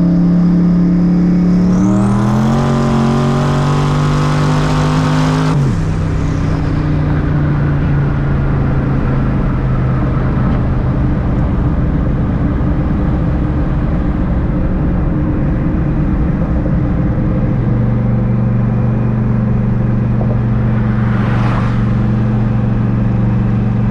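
Twin-turbo 4.6-litre V8 of a Mustang Cobra pulling at full throttle. The engine's pitch climbs for a few seconds with a rising turbo whistle, then cuts off abruptly as the throttle closes, and the car settles into steady running that steps down in pitch later on. This is a pull on which the engine leaned out under boost.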